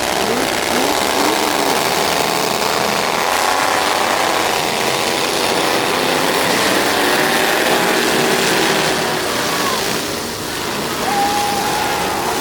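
Big derby trucks' engines running and revving, several pitches rising and falling together over a steady noisy rumble.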